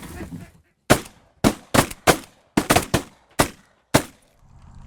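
Several hunters' shotguns firing a rapid volley of about nine shots at geese over about three seconds. The shots are irregularly spaced, some nearly overlapping, each with a short echo.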